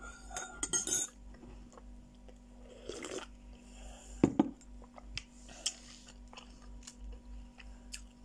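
A metal teaspoon clinking against a ceramic mug as it stirs, for about the first second, then close-up chewing and mouth sounds, with a single louder knock about four seconds in.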